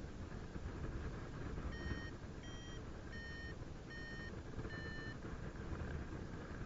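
Paraglider variometer beeping: five short beeps from about two seconds in, a little over half a second apart, the pitch shifting slightly from beep to beep. The beeping is the vario's climb tone, a sign that the glider is rising in lift. Under the beeps is a steady low rumble of wind on the microphone.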